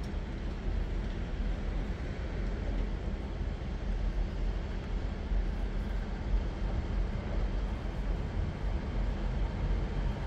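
Diesel multiple unit train running steadily, a low, even rumble with no change in pitch.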